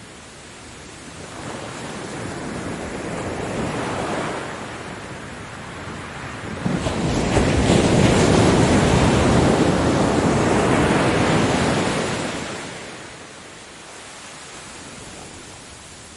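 Ocean surf on a beach: a smaller wave swells and falls back in the first few seconds, then a bigger wave breaks about six and a half seconds in, washes loudly for several seconds and fades.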